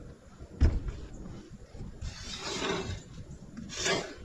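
Knocking and scraping from handling building materials during construction work: one sharp knock under a second in, a rough scraping rustle from about two to three seconds, and a brief scrape near the end.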